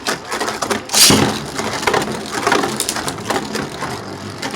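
Two Beyblade Burst spinning tops clattering and clashing in a plastic stadium: a fast, irregular run of hard plastic clicks and knocks, with one louder hit about a second in.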